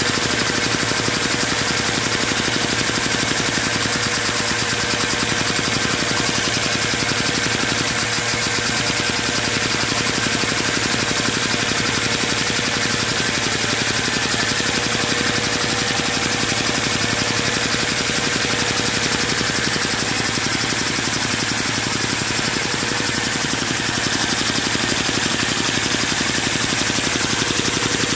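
Lego Technic vacuum engine with overhead cam and poppet valves running steadily at high speed: a fast, even plastic clatter over the steady rush of the suction that drives it.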